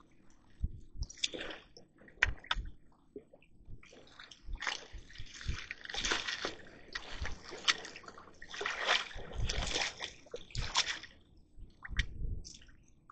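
Water splashing and sloshing in many short, irregular bursts, busiest through the middle of the stretch.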